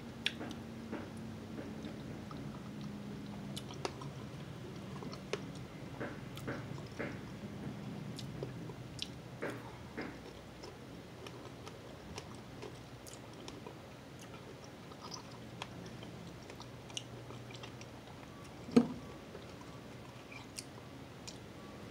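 Close-up chewing and biting of breakfast food, blackberries and sausage, with small wet mouth clicks scattered throughout. A single sharper knock comes about three-quarters of the way through.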